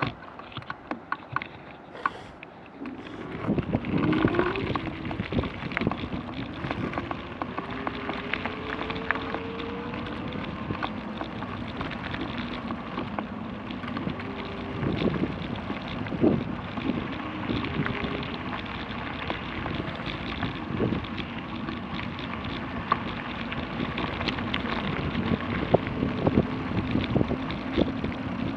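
Pedego electric bike rolling along a gravel trail: tyres crunching and rattling over gravel with wind buffeting the microphone, picking up about three seconds in, with a faint wavering hum underneath.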